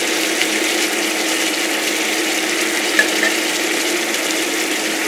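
Chicken adobo sizzling in a frying pan, a steady frying hiss as the soy-vinegar sauce cooks down, with a small click about three seconds in.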